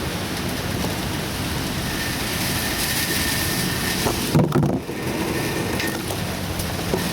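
Typhoon wind and heavy rain as a dense steady rush, with a louder low rumble about four and a half seconds in.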